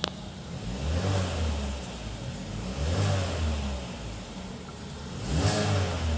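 Holden Cruze 1.8-litre four-cylinder petrol engine idling and revved three times, each rev rising and falling back to idle, after a sharp click at the start.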